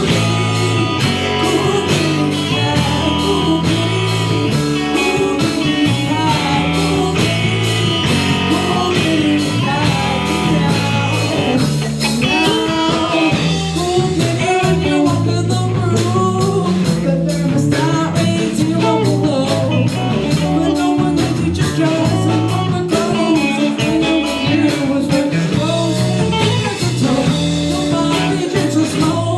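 A live rock band playing a bluesy song, with electric guitar, bass and drums keeping a steady beat.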